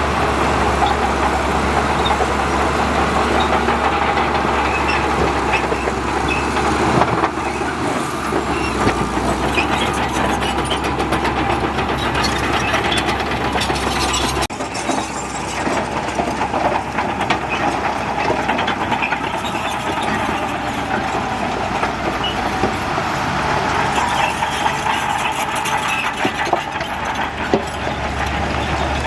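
Crawler bulldozer working: its diesel engine running with a steady rattle and clank of steel tracks, the loudness dipping slightly about a quarter and half of the way through.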